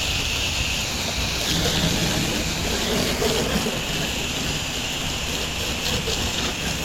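Pressure washer running, with a steady hiss of high-pressure water spray over a low engine rumble.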